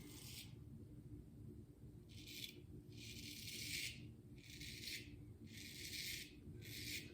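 Straight razor scraping through lathered stubble in about six short strokes, each lasting under a second.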